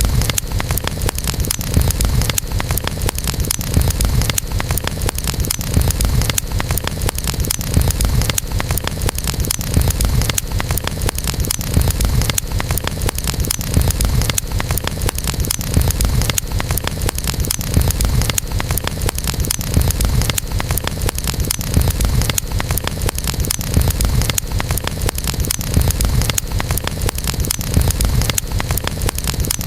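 Campfire burning, its wood crackling with dense, constant small pops over a steady low rumble.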